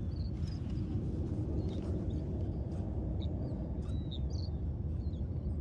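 A bird chirping a few short calls over a steady low outdoor rumble.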